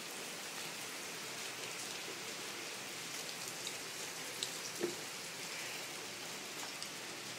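Heavy rain pouring down steadily, an even hiss of rain with a few individual drops ticking out here and there.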